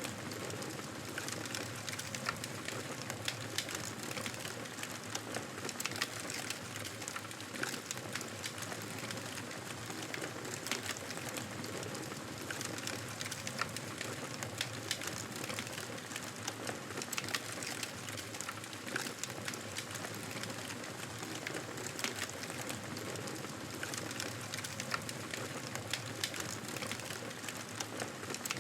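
Wood campfire burning steadily, its crackle a constant hiss broken by frequent sharp, irregular pops and snaps.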